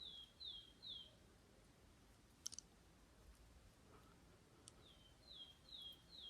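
A small songbird calling: a quick run of short whistled notes, each sliding downward, at the start and again near the end, over near silence. A single sharp click about two and a half seconds in.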